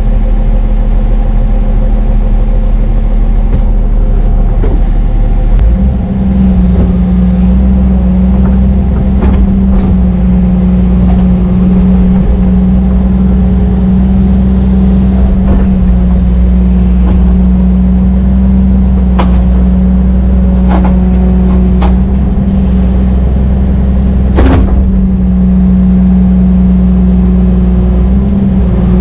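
Brøyt X21 excavator's diesel engine running steadily, stepping up in speed about six seconds in and holding there under load. Several sharp metallic knocks come in the second half, the loudest about 24 seconds in.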